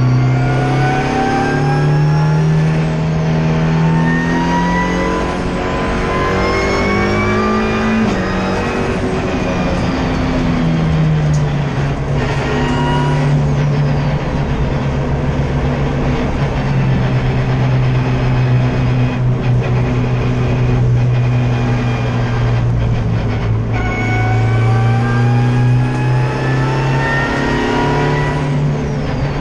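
Turbocharged EcoBoost engine of a Ford Fiesta race car heard from inside the cabin under hard acceleration. It climbs in pitch through the revs, drops back at gear changes, holds steadier for a while in the middle and climbs again near the end, over road and wind noise.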